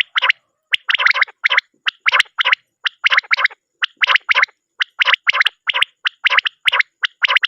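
Common quail calling: a quick run of short, raspy notes, several a second, often in close groups of two or three.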